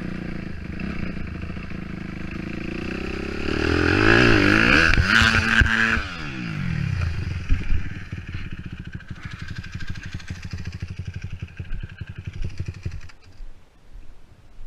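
Dirt bike engine running, then revved hard for a couple of seconds with the pitch rising and falling, then dropping off. A couple of sharp knocks come about halfway through, and the engine chugs unevenly before its sound drops away near the end.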